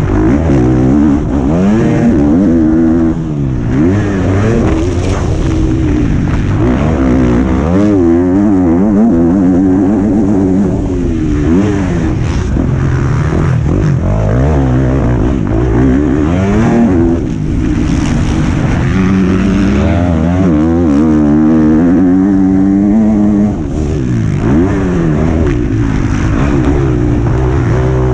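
Motocross bike engine heard from on board, revving up and falling back over and over as the rider works the throttle.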